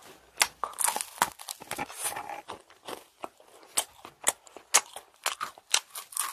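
A macaron being chewed and bitten close to the microphone: irregular crisp crunches and clicks, densest in the first couple of seconds, then sparser.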